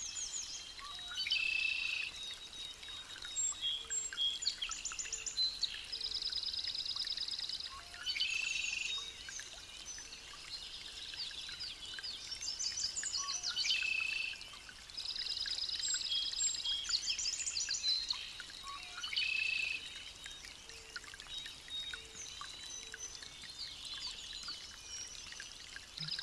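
Songbirds singing: loud phrases of rapid trilled notes come back every few seconds, with softer chirps between them.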